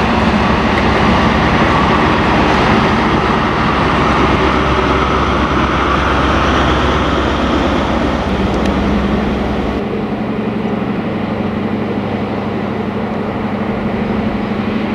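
Diesel-hauled train running past with a steady engine drone over rolling noise. About ten seconds in the low rumble cuts off abruptly and a steadier engine hum carries on.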